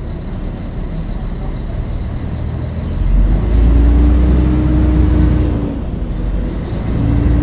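Scania L113CRL bus's diesel engine running as a low rumble that grows louder about three seconds in, joined by a steady whine that drops away near six seconds and returns near the end.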